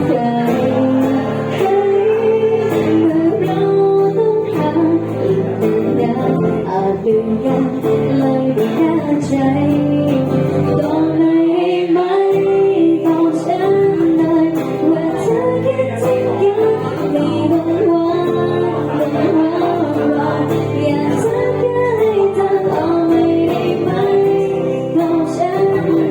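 A woman singing a slow song to guitar accompaniment.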